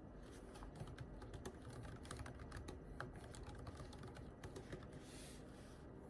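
Quiet typing on a computer keyboard: faint, irregular runs of light keystroke clicks, with a brief soft rustle about five seconds in.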